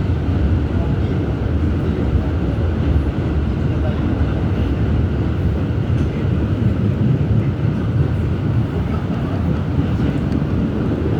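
Steady low rumble inside an R211S subway car as the train runs along the track.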